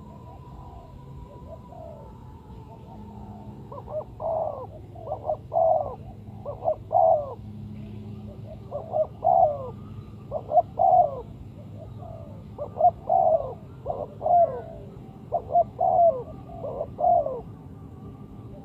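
Spotted dove cooing, with four repeated phrases of several short notes each, starting about four seconds in.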